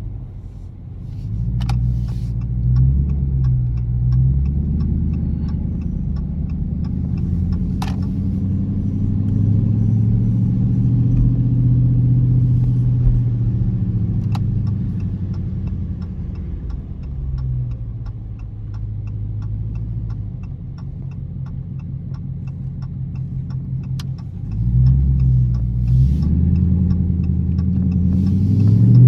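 Dodge Charger R/T's V8 engine running at low, varying speed while driving, then rising steadily in pitch near the end as the car accelerates.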